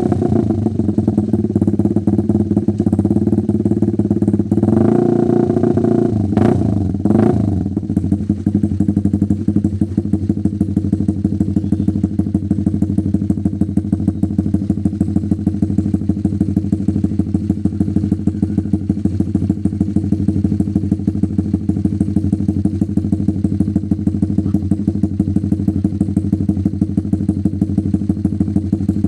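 Honda CB150R single-cylinder engine running through an aftermarket Mafia slip-on silencer on a Proliner header. It runs fuller for the first several seconds, with two sharp blips about six and seven seconds in, then settles to a steady, pulsing idle.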